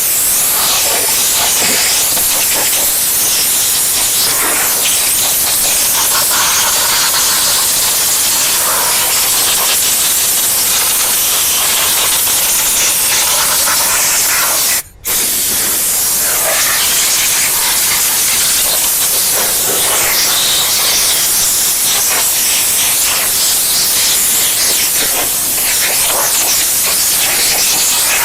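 Compressed-air gun blowing a loud, steady hiss over the engine bay, driving off rinse water and degreaser, with one brief break about halfway.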